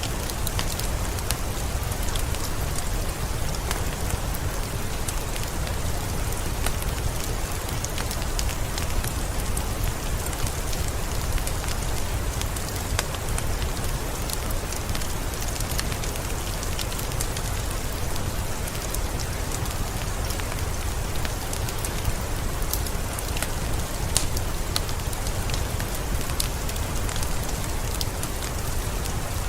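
Steady rain, an even hiss with a low rumble, mixed with the scattered sharp crackles and pops of a wood fire burning in a fireplace.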